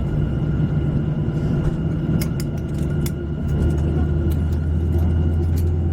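Airliner cabin noise aboard a Boeing jet on the ground before departure: a steady low rumble and hum with a thin steady whine, a few light clicks, and the low hum growing stronger about halfway through.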